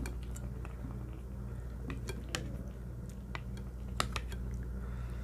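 Someone eating: chewing, with scattered sharp clicks like utensils tapping a bowl, the loudest about four seconds in.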